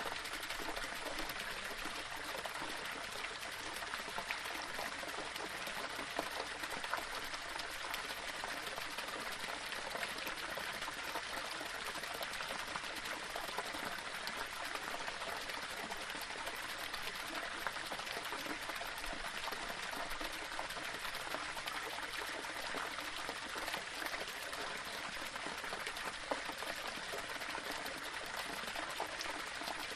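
Small waterfall splashing and trickling over stones: a steady hiss of running water with small splashes throughout.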